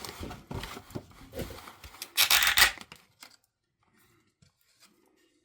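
Packaging being handled and rubbed as a model locomotive is taken out of its box, with one loud tearing, rustling scrape about two seconds in.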